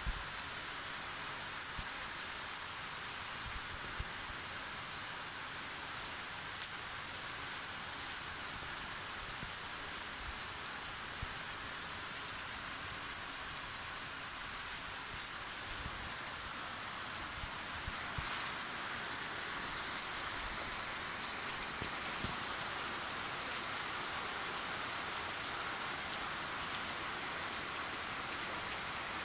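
Steady rain falling, a constant hiss with the odd louder drop ticking close by.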